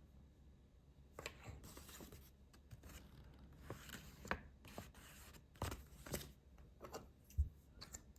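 Plastic building bricks being handled and pressed together: scattered small clicks and brief rustling, with one sharper knock near the end.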